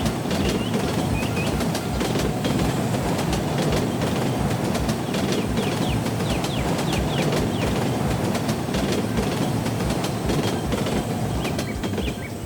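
Steady rumbling vehicle or machinery noise with an even low thumping about three times a second and scattered clicks, with a few short bird chirps over it.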